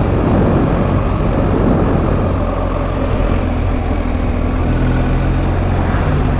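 BMW R1250 GS Adventure's boxer-twin engine running steadily while riding, with a constant rush of wind noise.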